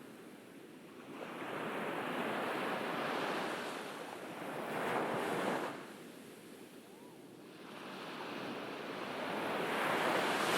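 Ocean surf washing onto a beach: two waves, each a rushing swell that builds over a few seconds. The first falls away sharply about halfway through, and the second peaks near the end.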